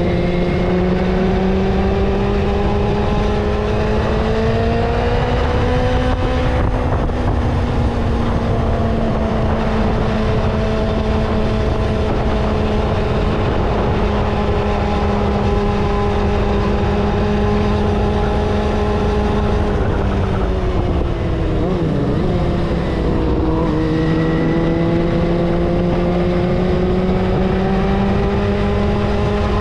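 Vehicle engine running under way, a steady pitched drone. Its pitch rises slowly over the first few seconds, dips and wavers just after 20 s, then climbs back.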